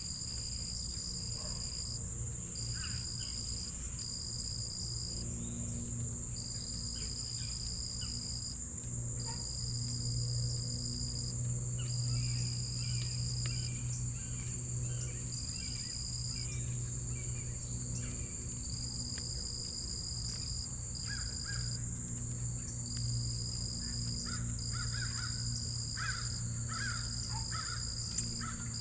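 Steady chorus of crickets: one high continuous trill and a second one pulsing on and off every second or two, over a low hum. In the middle and again near the end, a bird gives runs of short harsh calls.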